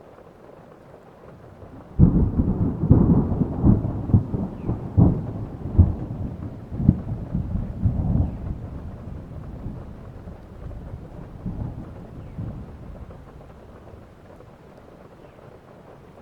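Steady rain, then a thunderclap breaks in sharply about two seconds in and rolls on as a crackling rumble of repeated low peaks, dying away over the next ten seconds or so.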